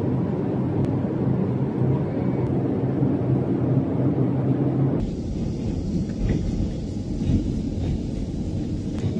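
Steady airliner cabin noise inside a Boeing 787-9: a constant low rumble of engines and airflow with a faint hum. About five seconds in it switches suddenly to a deeper rumble with a few faint clicks.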